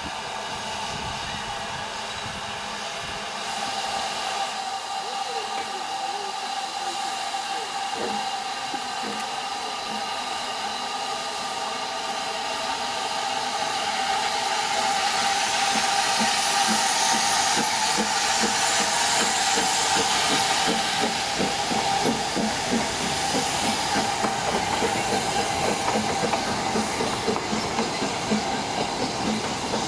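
Narrow-gauge steam train running past, its wheels clattering rhythmically over the rail joints under a steady hiss. It grows louder about halfway through and stays close for the rest.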